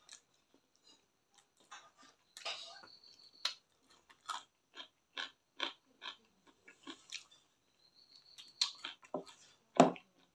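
Close-up chewing of chicken and rice: a run of short wet smacks, about two to three a second, with one louder smack near the end.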